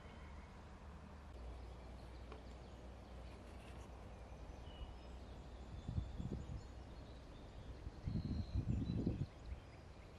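Outdoor field ambience with faint, scattered birdsong over a steady low rumble. Low thudding bumps come about six seconds in and again, louder, around eight to nine seconds.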